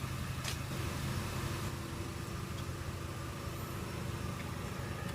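Steady low hum of an idling vehicle engine, with a faint steady tone above it.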